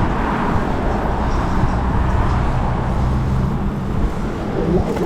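Steady rush of wind and road noise on the microphone of a bicycle riding along a street.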